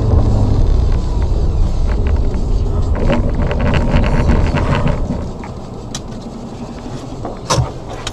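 Low rumble of a car's engine and road noise, with scattered clicks and knocks; it drops in level about five seconds in.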